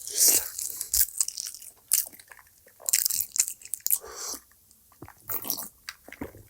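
Close-miked eating: irregular crunchy bites and chewing of food in the mouth, several crisp crunches in quick runs with softer chewing between.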